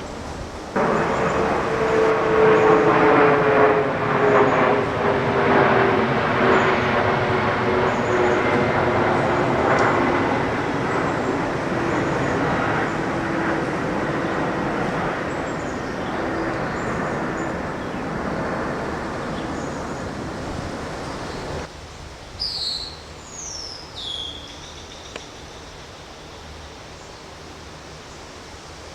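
Loud engine noise with a tone that slowly falls in pitch, starting abruptly and cutting off suddenly after about twenty seconds. Then a bird gives a few short, high, falling calls.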